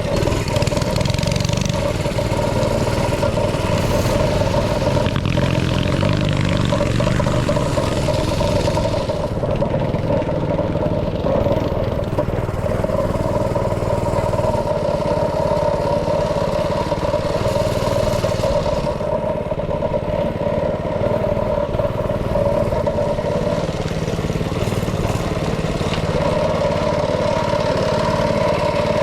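A small engine running at a steady, fairly high speed with a constant pitch. The sound turns duller twice for a few seconds, about a third of the way in and again past the middle.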